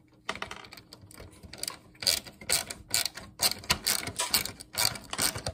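Irregular run of sharp mechanical clicks and clatter from hand tools working on the monitor's parts during a teardown, faint at first and louder and more frequent from about two seconds in.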